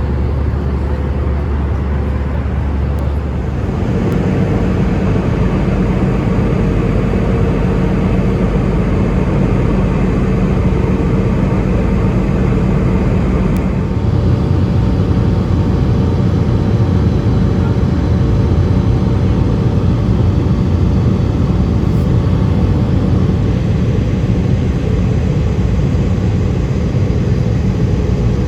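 Loud, steady rumble of an Airbus A320 heard from inside the cabin: its engines and the airflow. The tone shifts about three seconds in and again about fourteen seconds in.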